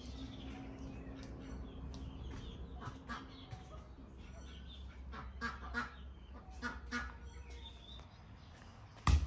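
Farmyard birds calling in short, repeated calls, with a sharp thump about nine seconds in.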